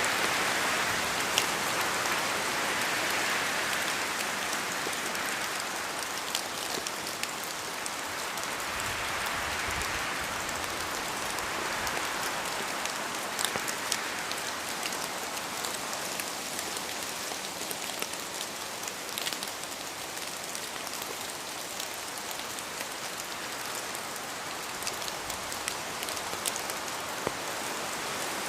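Steady rain falling in a forest, an even hiss that swells and eases a few times as the wind gusts, with scattered sharp ticks of single drops hitting close by.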